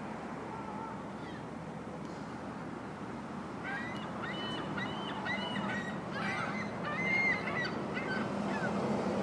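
A flock of gulls squabbling and calling over one another, the harsh calls growing thicker and louder from about three and a half seconds in, over a steady background rush.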